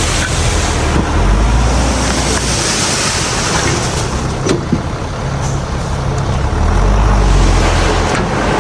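Heavy diesel earthmoving machinery running loud and steady with a low engine rumble. A hiss swells in the middle, and there are a couple of short knocks or clicks past the halfway point.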